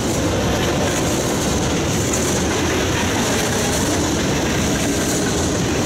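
CN freight train passing fast through a level crossing close by: a loud, steady rush and rumble of wheels on the rails.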